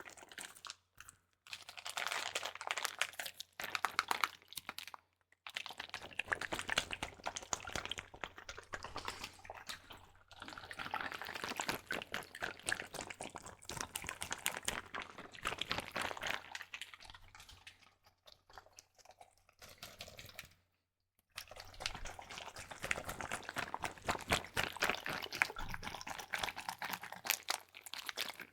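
Water squishing and sloshing in a double-layered Ziploc bag as it is squeezed and handled, with the plastic crinkling: dense crackly stretches broken by brief pauses, one about five seconds in and another about twenty seconds in.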